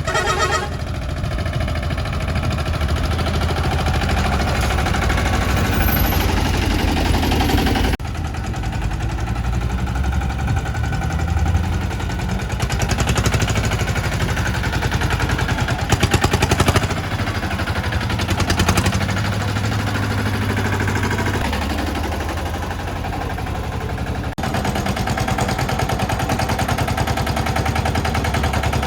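Escorts Steeltrac 15 mini tractor's engine running, a rapid, even chugging of firing pulses that jumps abruptly in character twice along the way.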